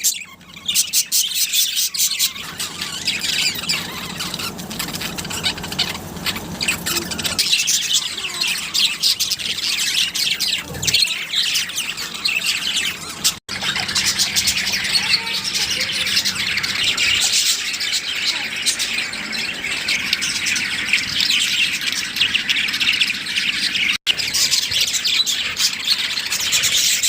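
A mixed flock of caged lovebirds, budgies and finches chirping and squawking at once in a dense, continuous chatter, cutting out briefly twice.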